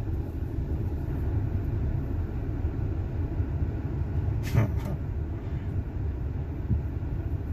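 Steady low road and engine rumble inside a moving car's cabin, with one brief sound about halfway through.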